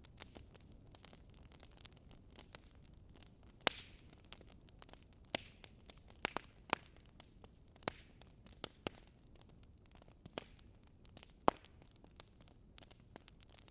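Burning firewood crackling: irregular sharp pops and snaps over a faint steady hiss, with the loudest pops about four seconds in and again past eleven seconds.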